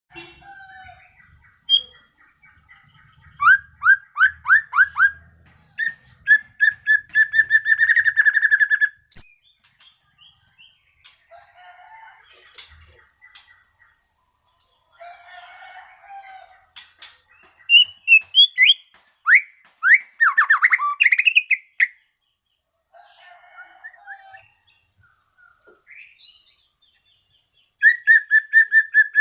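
White-rumped shama (murai medan) singing: loud bursts of rapid repeated notes, fast trills and sweeping whistles, broken by short pauses.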